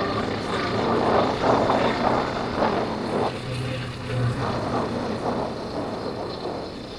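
Yamaha Factor 150's single-cylinder four-stroke engine running while riding, with wind buffeting the microphone in gusts. It grows quieter near the end.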